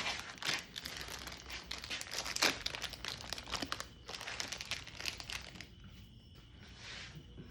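Hands working rubber grip donuts onto a dirt bike's handlebar grips: a run of short crinkly rubbing and scraping sounds that thin out and grow quieter near the end.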